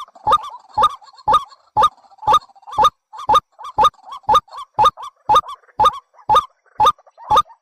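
A bird's harsh, sharp call repeated evenly about twice a second, a recorded lure call of the kind played to draw birds into traps.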